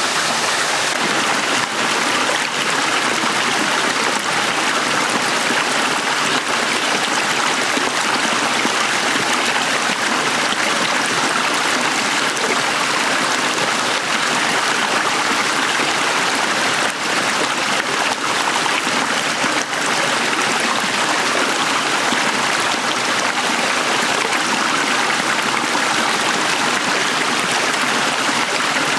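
Small stream running over rocks, a steady rush and burble of shallow flowing water.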